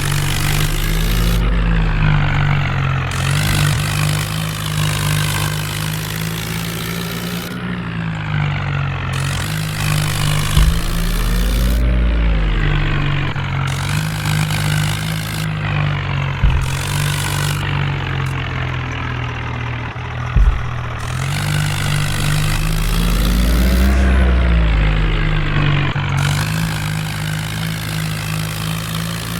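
Swaraj 855 tractor's three-cylinder diesel engine running steadily, revved up and back down three times, with a few sharp clicks.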